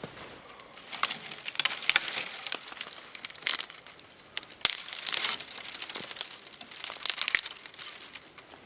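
Crinkling and crackling in irregular clusters of sharp clicks, coming in several bunches with short lulls between.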